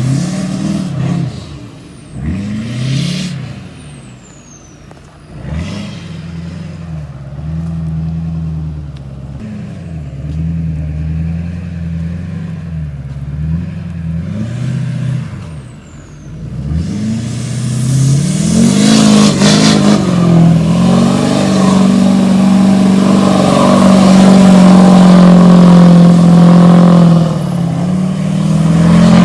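Duramax 6.6 L turbo-diesel V8 of a lifted pickup revving up and down in repeated short pulls, then about halfway through settling into a longer, louder and steadier pull, loudest near the end.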